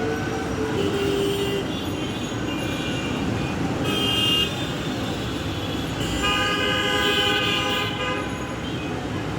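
City road traffic with vehicle horns honking over a steady traffic rumble: a short honk about four seconds in and a longer one lasting about two seconds a little later.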